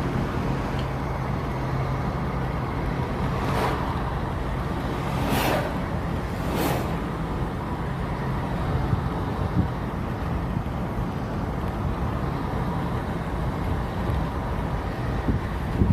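Steady road and wind noise of a car driving on a highway, heard from inside, with three brief whooshes of passing traffic a few seconds in.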